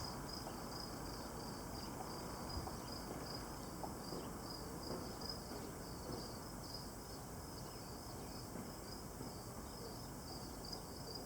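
Crickets chirping steadily, a high, even pulse of about three chirps a second over a faint background hiss.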